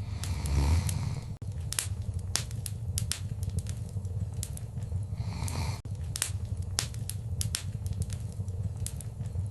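Wood fire crackling in a fireplace: sharp pops about twice a second over a steady low rumble, with brief hissing flare-ups about half a second in and again around five seconds.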